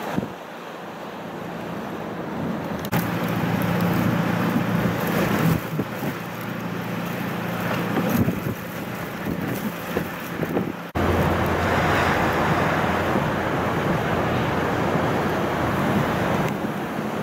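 A vehicle driving through a blizzard: a steady engine and road hum under gusting wind noise. About eleven seconds in, the sound changes abruptly and gets louder.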